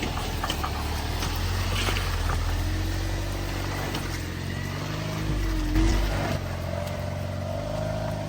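Jeep Wrangler engine running at low crawling speed on a rough trail, its pitch rising and falling a little, with a short surge a little before the middle of the second half.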